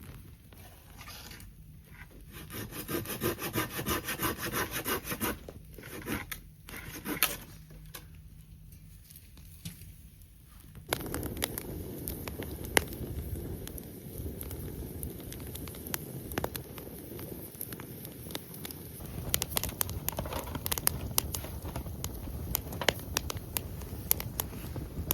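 Wood being sawn by hand in a run of quick rhythmic strokes, then a campfire crackling with scattered sharp pops over a steady rushing noise.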